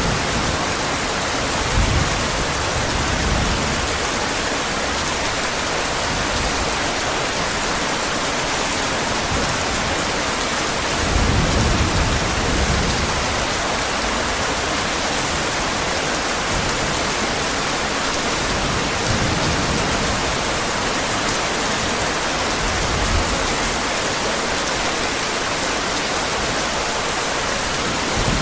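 Steady heavy rain, an even hiss, with low rumbles of thunder swelling up a few times, the strongest about eleven seconds in.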